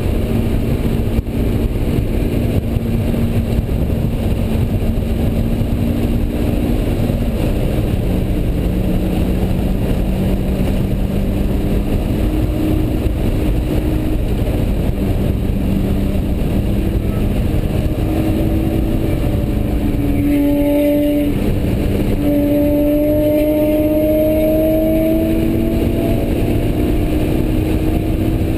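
2004 Honda S2000's 2.2-litre four-cylinder engine heard from inside the cabin at track speed under heavy wind and road noise. The engine note holds and slowly sags through the corners, breaks off briefly about twenty seconds in, then climbs steadily over the next few seconds as the car accelerates.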